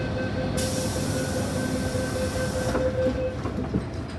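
MTR M-Train electric multiple unit running on the line, with a steady high tone held for about three seconds over the running noise. A sharp hiss comes in about half a second in and cuts off about two seconds later.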